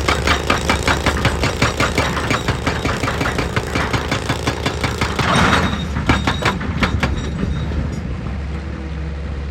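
Excavator's diesel engine running with rapid, regular metallic clanking, about five or six a second, that stops about seven seconds in, leaving the engine running steadily.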